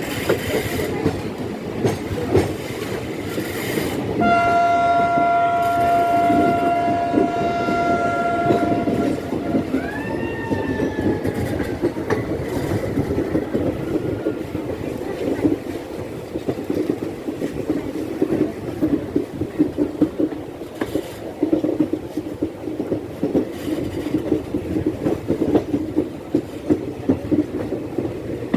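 Passenger train running, its wheels clacking over rail joints with a steady rumble. The train's horn sounds one long steady blast a few seconds in, lasting about five seconds, followed by a short tone that slides up and back down.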